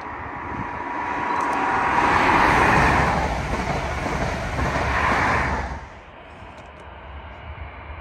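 A train passing close by: a loud rushing of wheels on the rails builds up, swells twice, then drops away suddenly as the end of the train goes past, leaving a low rumble.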